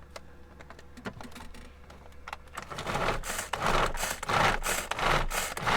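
Knife working on a wooden chopping board: a few light taps, then from about halfway a run of loud rasping scrapes.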